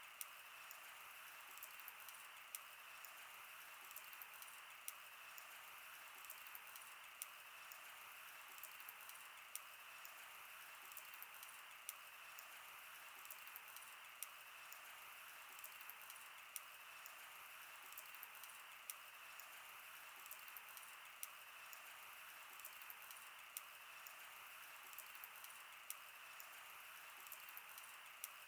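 Wood fire crackling: frequent, irregular sharp snaps and pops over a steady faint hiss.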